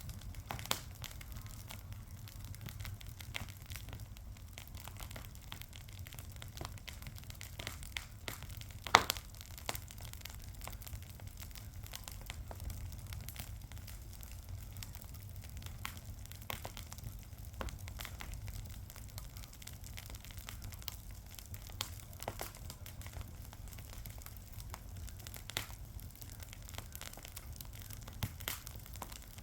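Fire crackling: irregular sharp pops and snaps over a low steady rumble, with one louder pop about nine seconds in.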